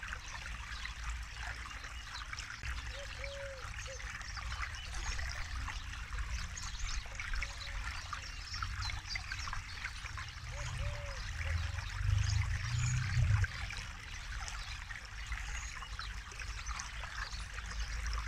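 Forest river flowing over stones, a steady trickling and babbling full of small splashes, with a low rumble that swells briefly about two-thirds of the way through. A few short, low, arching calls sound now and then.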